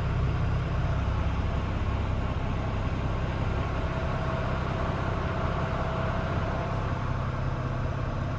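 Iveco Stralis 450 tractor unit's turbocharged diesel engine idling steadily.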